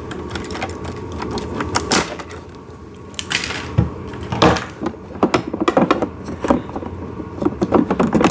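Handling noises from assembling a plastic ride-on toy and its rear axle: scattered clicks, knocks and rattles, coming in quicker runs in the second half.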